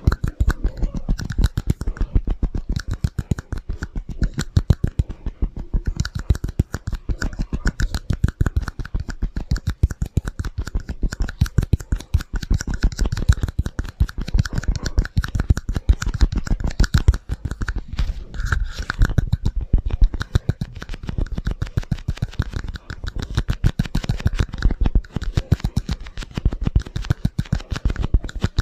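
Rapid, continuous tapping and scratching on ASMR trigger objects, many taps a second without pause, with an echo effect added to the sound.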